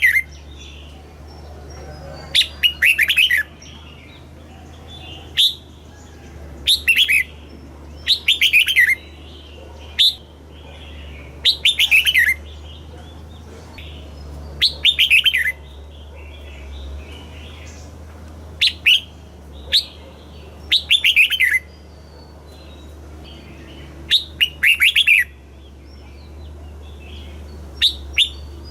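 Red-whiskered bulbul song: short, bright phrases of a few quick falling notes, repeated every one to three seconds about a dozen times. A steady low hum runs underneath.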